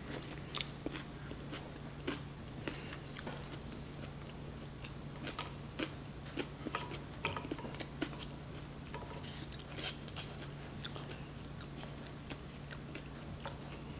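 Close-miked chewing and biting of food, with many small crisp clicks and crunches scattered irregularly, over a faint steady low hum.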